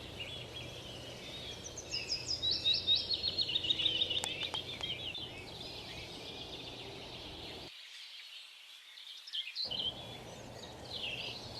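Small birds chirping outdoors: a run of quick, high chirps a second or two in, then scattered calls over steady outdoor background noise. The sound cuts out completely for about two seconds in the second half.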